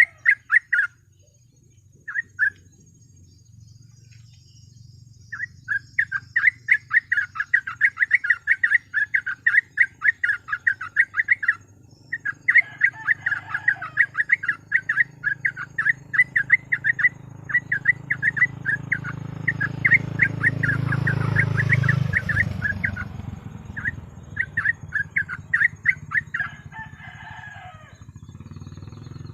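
Yellow-vented bulbul (trucukan) singing its rapid 'ropel' song: long runs of fast, repeated chattering notes in several bursts of a few seconds each, over a low background hum that grows louder about two-thirds of the way through.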